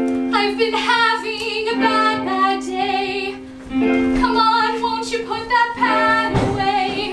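A song: a woman's singing voice, wavering in pitch, over a held accompaniment note.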